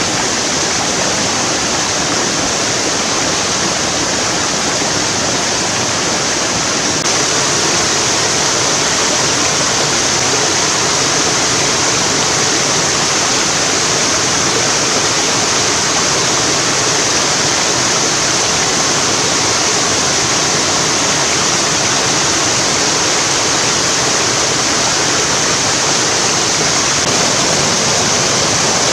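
Mountain stream water rushing steadily over rocks, a little louder from about seven seconds in.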